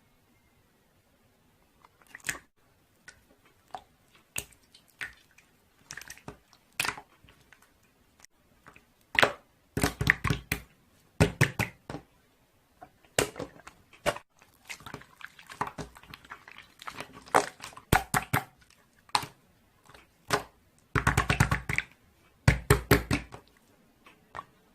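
Close, irregular handling noises: scattered taps and clicks, with a few longer crunching or rustling bursts.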